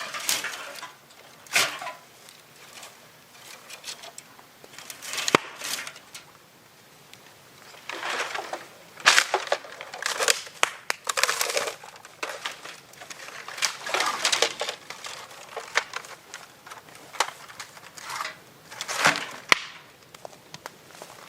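Wood being worked by hand: irregular bursts of crunching and cracking, with a few sharp snaps.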